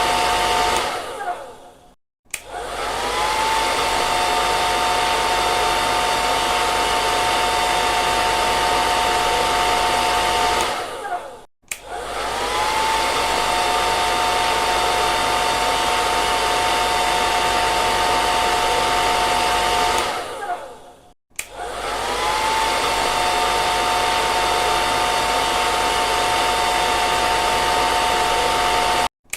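Hair dryer running with a steady rush of air and a motor whine. Three times it winds down into a moment of silence and starts again, its whine rising and settling. Near the end it cuts off abruptly and starts again.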